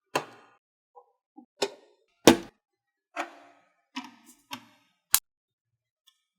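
Plastic LEGO bricks clicking and snapping together, about nine separate sharp clicks with silence between them, the loudest a little over two seconds in.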